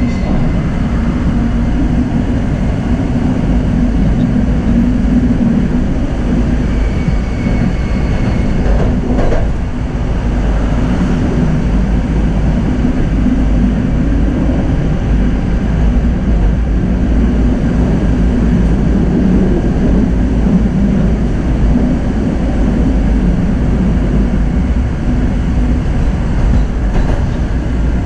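Tram running along its track: a steady rumble of wheels on rails and running gear.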